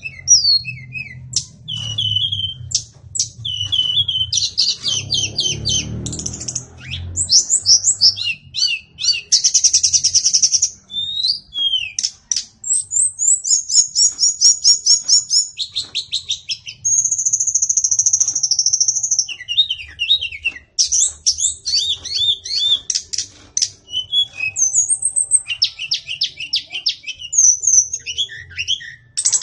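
White-rumped shama singing a long, varied song of rapid whistles, trills and chattering phrases, one after another with hardly a pause.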